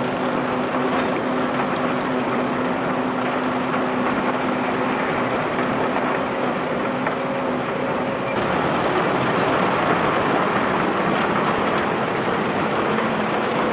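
Ship's conveyor unloading bulk ore running: a steady rush of material over the belt with a low machine hum that fades and returns.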